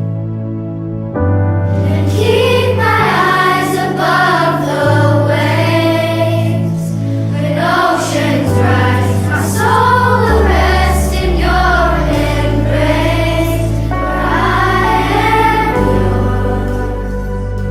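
Christian praise song sung by a choir of voices over a backing track with steady bass notes.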